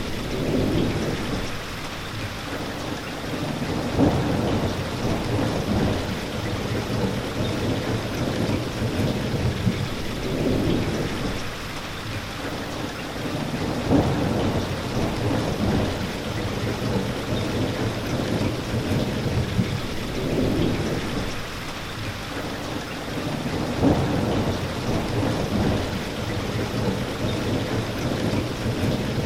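Steady heavy rain with low rumbles of thunder swelling and fading about every ten seconds.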